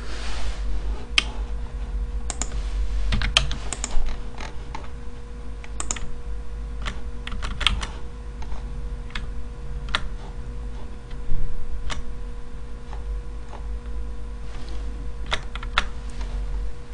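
Computer keyboard keystrokes and clicks, sparse and irregular, a few every couple of seconds, over a steady low electrical hum.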